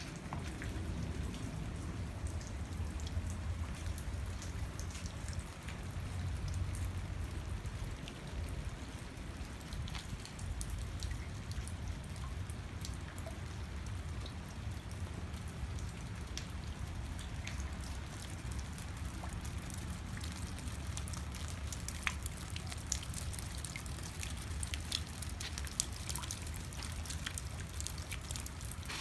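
Rain falling, with scattered individual drops ticking on surfaces, more often in the second half, over a steady low rumble.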